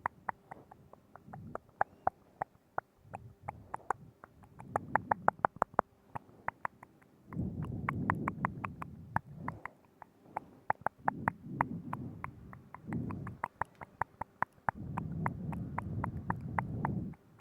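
Close-up wet mouth sounds into a binaural microphone: rapid runs of sharp tongue clicks and lip smacks. Between them come low muffled swells lasting a second or more.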